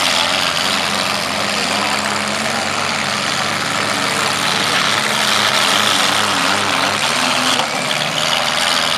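Engines of several compact demolition derby cars running together at once, loud and steady, their pitch wavering up and down as the drivers work the throttles.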